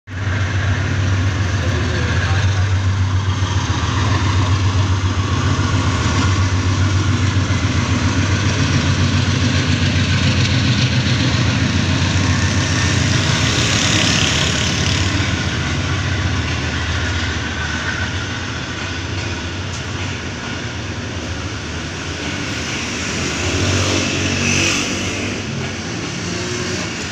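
Pakistan Railways AGE-30 diesel-electric locomotive passing slowly with a steady low engine drone. After about fifteen seconds the drone gives way to the rumble of green passenger coaches rolling by on the track.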